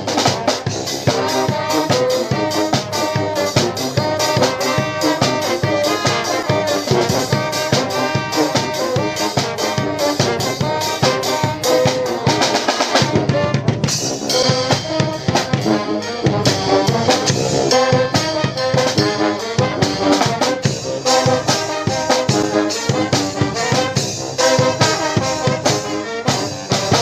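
Live brass band playing: trumpets and trombones over a drum kit.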